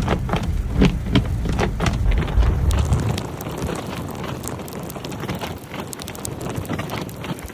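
Steady crackling patter of wet winter precipitation hitting surfaces, with a low rumble that fades out about three seconds in.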